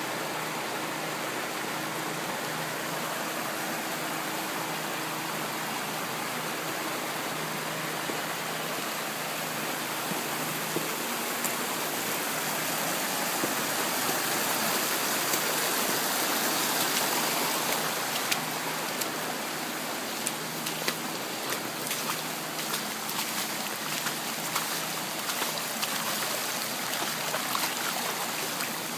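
Steady rush of running water, swelling louder about halfway through, with scattered sharp ticks and taps in the second half.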